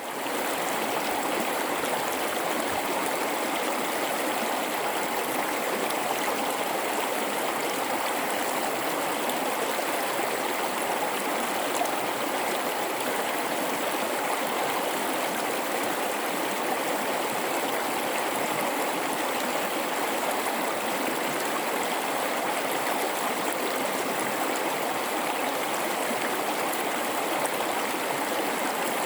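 River flowing through a gorge: a steady, unbroken rush of running water.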